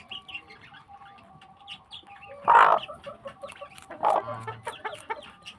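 Chickens clucking, with one loud call about two and a half seconds in, another just after four seconds, and many short chirps in between.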